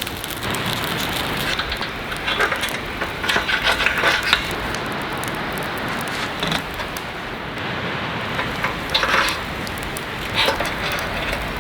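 Steady hiss of rain falling on a tent, broken by about five short, louder rustling bursts.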